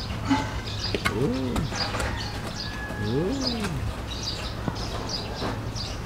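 Birds calling: repeated short high chirps throughout, with two low cooing calls that rise and fall, about a second in and about three seconds in. A steady low hum runs underneath.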